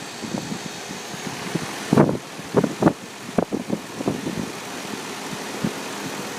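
Guardian 4-ton central air conditioner (heat pump) outdoor unit running steadily, its condenser fan and compressor giving an even whooshing hum. Irregular bumps and knocks sound over it, the loudest about two seconds in.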